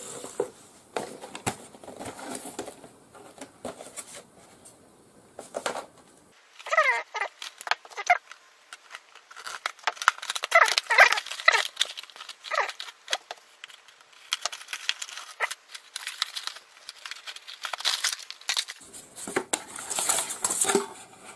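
Product packaging being opened by hand: paper and plastic tearing and crinkling, with scattered clicks and rustles.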